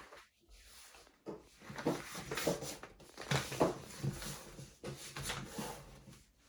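A square sheet of origami paper rustling and being creased in short, irregular bursts as it is handled and folded.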